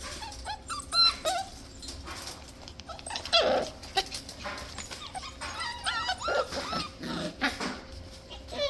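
Six-week-old Scottish terrier puppies yipping and squealing in play: many short, high-pitched cries coming in clusters, mixed with scattered knocks and scuffles.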